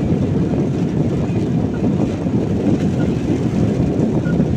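Steady low rumble of a car driving in the rain, tyre and road noise heard from inside the cabin.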